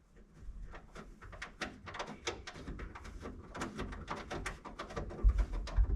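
Hand tools working loose a vehicle seat's mounting bolts: a string of irregular metallic clicks and clinks, with a few low thumps near the end.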